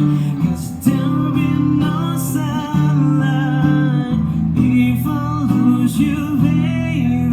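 Acoustic guitar playing with a voice singing over it.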